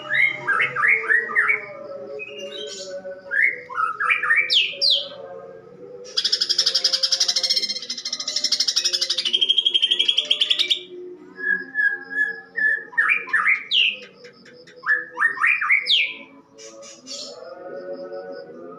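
Cucak ijo (green leafbird) singing harsh, fast song that is filled with mimicked fighting-sparrow calls. It gives quick bursts of rising chirps, and in the middle a long rasping buzz lasts about five seconds.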